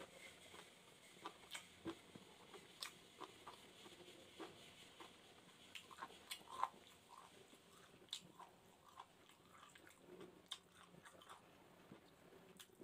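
Faint chewing of a person eating barbecued chicken gizzards with rice by hand: irregular mouth clicks and smacks.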